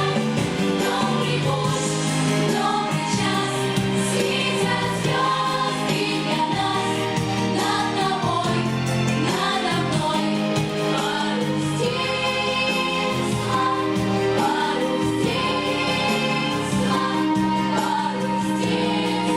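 A song with a group of voices singing together over a backing track.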